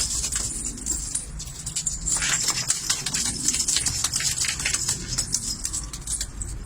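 A group of domestic pigeons moving about, a busy patter of small clicks and flutters throughout.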